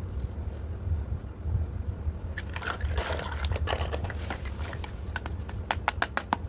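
Toy pieces being handled: rustling and scraping about halfway through, then a quick run of sharp plastic clicks near the end, over a steady low hum.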